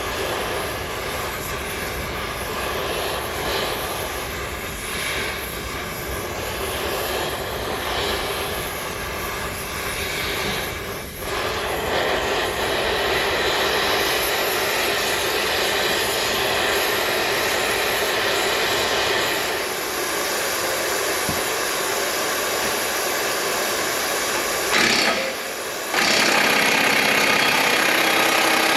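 Oxy-acetylene cutting torch burning with a steady, loud hissing roar that grows louder about twelve seconds in and changes again near the end.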